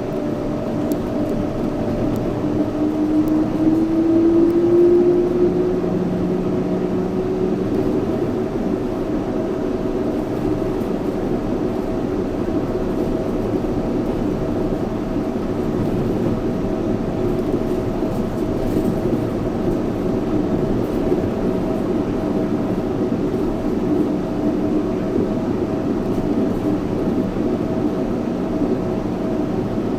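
Yurikamome 7300-series rubber-tyred automated guideway train running, with steady running noise under a high steady tone. A lower motor whine rises in pitch a few seconds in, then settles.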